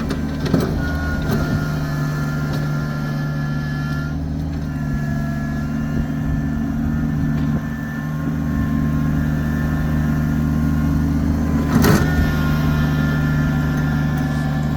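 Kubota tractor's diesel engine running steadily under load, with a fainter steady whine above the engine note. A single sharp knock about twelve seconds in.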